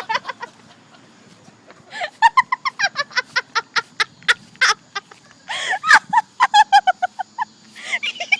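High-pitched, hysterical laughter: a fast run of short cackling "ha" pulses, about four or five a second, starting about two seconds in, peaking near the middle and dying away near the end.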